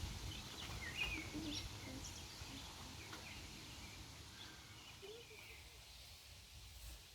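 Faint scattered bird chirps over a low outdoor rumble, both fading gradually.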